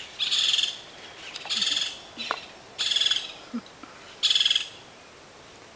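A bird calling: four short, high, rattling trills, about one and a half seconds apart.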